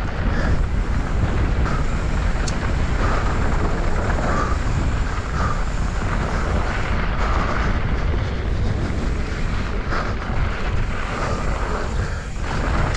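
Steady wind roar buffeting an action camera's microphone at riding speed, over the low rumble of mountain bike tyres rolling on a dirt trail.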